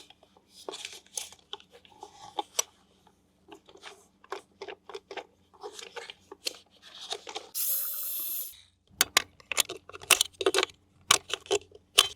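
Hands handling toy packaging and plastic parts: tearing, crinkling and a quick run of sharp clicks. About eight seconds in comes a second-long hiss with a steady tone under it.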